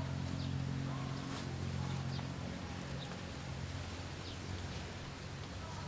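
A low steady hum that fades out over the first few seconds, with a few faint high chirps scattered through.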